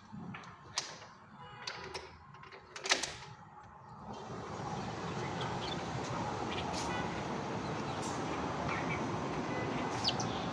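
Scattered clicks and knocks of handling in a quiet room. About four seconds in, a steady outdoor hiss rises and holds, with a few faint short chirps over it.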